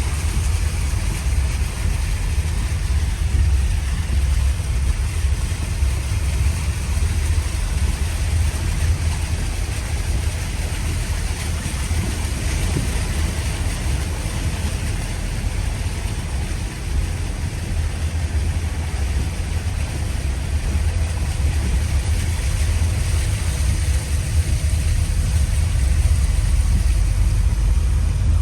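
A vehicle driving on rain-soaked roads, heard from inside: a steady low engine and road rumble with an even hiss of tyres on the wet surface.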